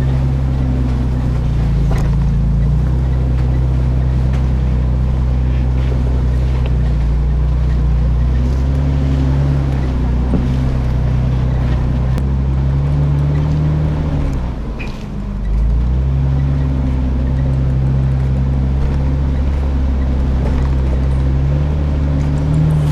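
Nissan Xterra's engine running steadily while driving off road, its note rising and falling with the throttle. About fifteen seconds in the engine note dips briefly, then picks back up, with a few faint knocks.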